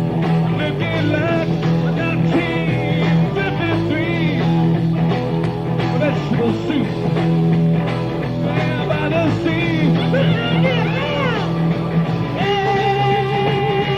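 Amateur live recording of a rock band playing a blues number. A lead line bends up and down over steady bass notes, and a held melodic phrase comes in near the end.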